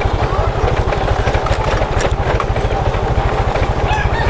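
Motorcycle engine running steadily as the bike rides along, with an even, fast low pulse from its firing.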